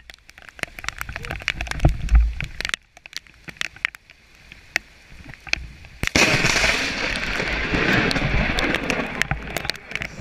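Rain hitting a hand-held action camera, heard as many sharp ticks with some low wind or handling thumps. About six seconds in, a loud rushing noise of rain and wind on the microphone starts suddenly and lasts a few seconds.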